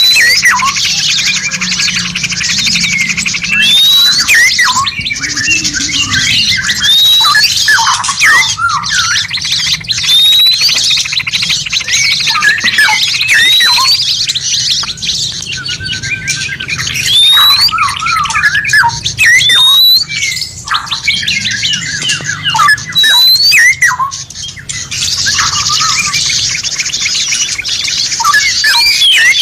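Several songbirds calling over one another in a masteran training recording for caged songbirds. A short rising whistle repeats every two to three seconds over dense, high chattering and twittering.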